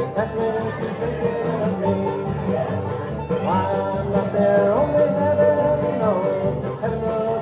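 A bluegrass band playing live on acoustic string instruments, with a melody line that slides between notes over a steady rhythmic accompaniment.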